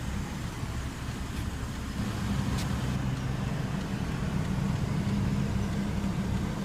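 BMW X3 xDrive35i's 3.0-litre twin-turbo inline-six idling, a steady low hum.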